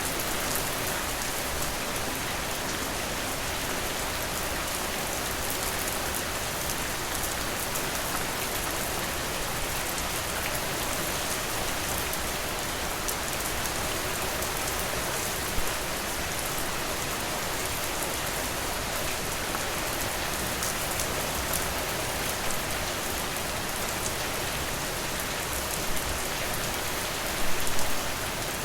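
Steady rain falling and pattering on surfaces, an even hiss with scattered drop taps. A few brief louder drips or taps stand out, a small cluster near the end.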